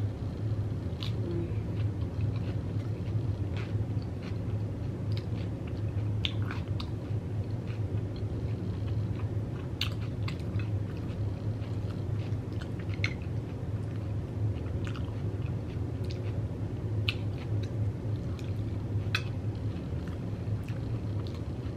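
Close-up chewing of a Xxtra Flamin' Hot Cheetos taco bowl with nacho cheese, with many short wet mouth clicks and crunches, over a steady low hum.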